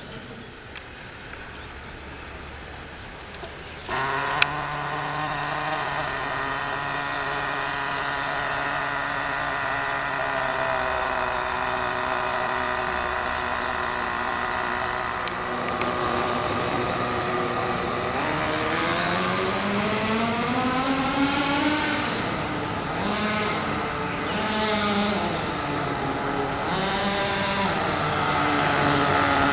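Small single-cylinder engine of a home-built car starting up about four seconds in, running steadily, then revved up and down several times in the second half.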